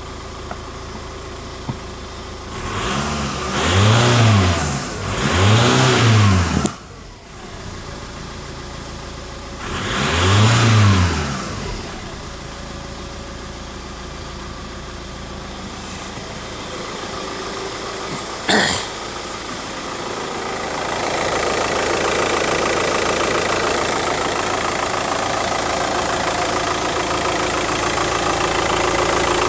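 Volkswagen Golf engine idling, revved briefly three times in the first third, each rev rising and falling back to idle. A short sharp sound comes a little past the middle. Near the end the engine keeps running steadily, somewhat louder.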